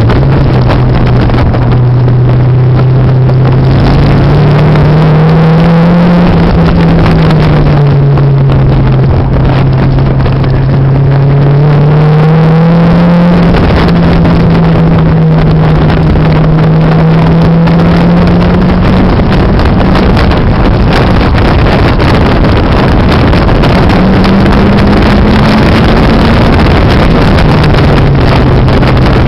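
Turbocharged Mazda MX-5's four-cylinder engine under hard track driving, heard loud from inside the cabin, its note climbing and dropping through several gear changes and corners, over wind and road noise. It is running reduced boost, 8 psi instead of the usual 12, because of a burnt vacuum pipe.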